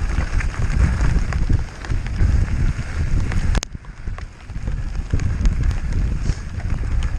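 Wind buffeting the microphone during a fast mountain-bike descent, with the bike rattling and its tyres clattering over rough ground. There is one sharp knock about three and a half seconds in.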